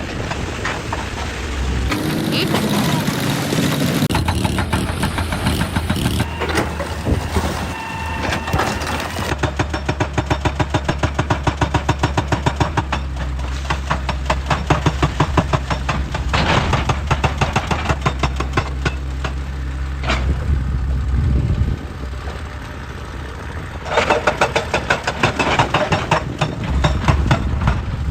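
Heavy diesel excavator engine running under load while a hydraulic rock breaker hammers on stone in fast, even strikes of roughly ten a second. The hammering pauses briefly a little after the middle and then resumes.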